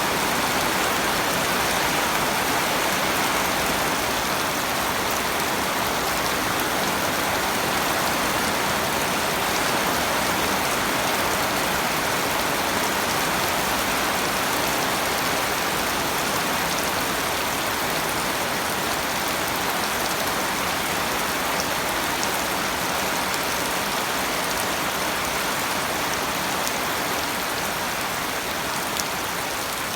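Steady rain falling, an even hiss of drops, with a few faint ticks of individual drops near the end.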